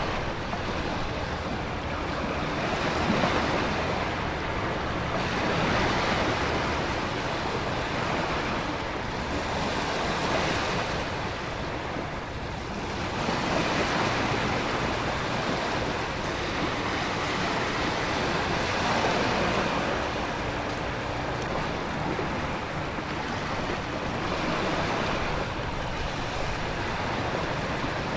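Storm ambience: heavy ocean surf surging and falling back in swells every few seconds, under steady wind and rain.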